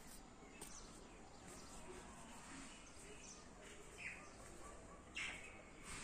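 Quiet outdoor ambience with faint bird calls: a few short chirps, the loudest a brief call about five seconds in.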